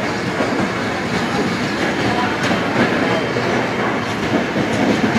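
Express passenger train's coaches rolling through the station, wheels clattering steadily over the rail joints, with a few sharper clicks in the middle.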